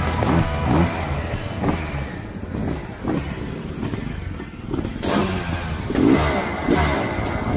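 Motocross sidecar outfits' engines revving hard, the pitch rising and falling with repeated throttle, loudest about six seconds in.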